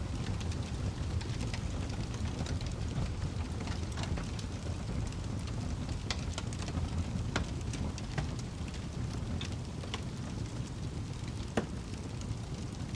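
Wood fire crackling in a fireplace: irregular sharp pops and snaps over a steady low rumble of burning flames, with one louder pop near the end.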